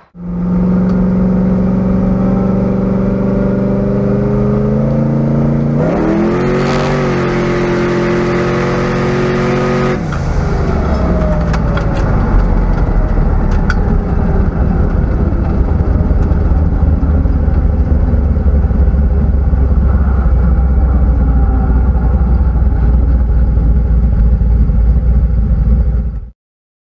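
Car engine running loudly with a steady note, briefly revving up about six seconds in. From about ten seconds in it gives way to a deep, rough rumble, which cuts off abruptly near the end.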